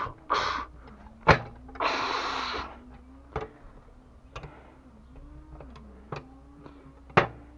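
Hand work on plumbing fittings: sharp clicks and knocks of parts and tools, with two short scraping noises about half a second and two seconds in.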